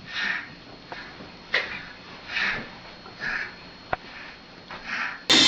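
Short breathy sniff-like noises, repeated about once a second, with a sharp click between two of them. Music cuts in abruptly at the very end.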